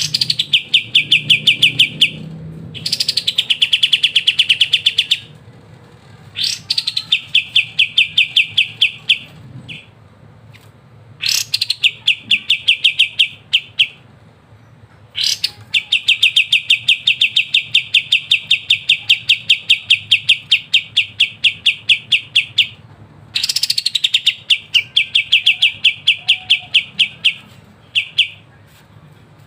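Kapas tembak singing its 'ngebren' song: rapid rattling trills of about ten sharp notes a second, each bout starting with a quick upward sweep. It sings in repeated bouts of a few seconds, the longest running about seven seconds past the middle.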